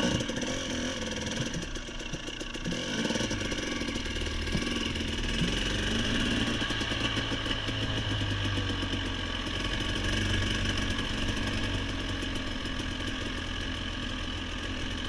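Off-road vehicle engine idling steadily close by.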